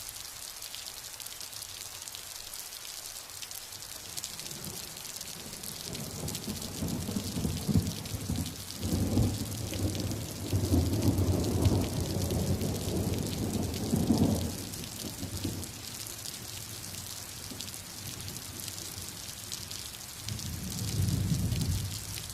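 Steady rain hissing throughout, with a long rolling rumble of thunder that builds from about five seconds in, peaks in the middle and fades after about fourteen seconds; a shorter, softer rumble of thunder follows near the end.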